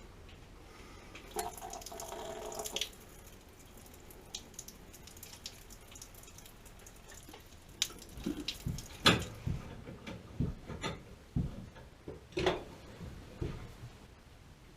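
Water running for about a second and a half, then a series of irregular knocks and clunks of hard objects, the loudest about nine seconds in.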